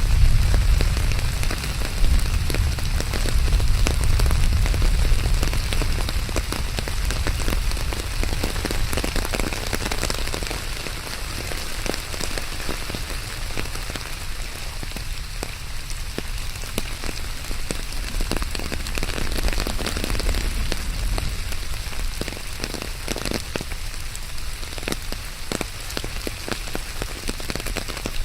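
Steady rain falling on a hard surface, with many close individual drops. A deep low rumble underneath is heavier over the first third and then eases off.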